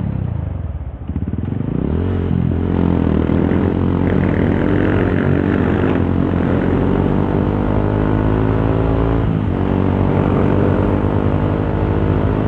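Honda CRF150L's single-cylinder four-stroke engine through a Norifumi Torc aftermarket exhaust, heard from the rider's helmet while riding. The pitch drops briefly about a second in, then climbs steadily as the bike accelerates, with a short dip about nine seconds in.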